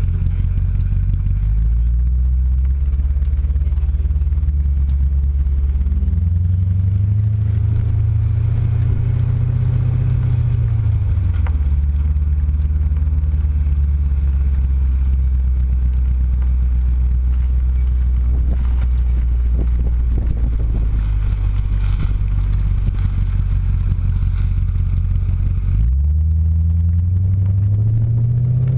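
B7 Audi S4's 4.2-litre V8 through a STaSIS aftermarket exhaust, heard close to the tailpipes under track driving. The engine note climbs about six seconds in, falls back about eleven seconds in and holds steady, then dips sharply near the end and climbs again.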